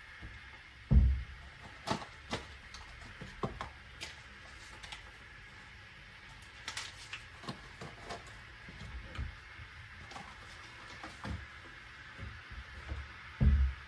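Small handling sounds: scattered light clicks and taps, with two soft low thumps, one about a second in and one near the end.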